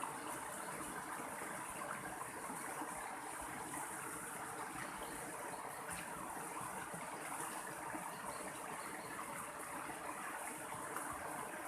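Mountain stream water flowing steadily, an even rushing hiss with no pauses.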